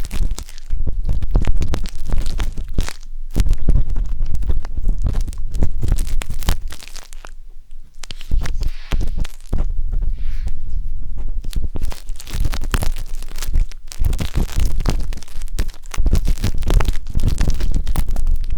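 Wooden tanghulu skewer scraping and scratching inside the silicone ear of a 3Dio binaural microphone, heard right at the ear as dense crackling and rubbing with a low rumble. It eases off briefly about seven seconds in.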